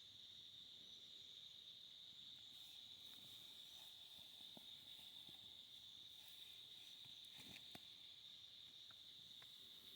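Faint, steady chorus of crickets trilling. A few soft ticks come in the second half.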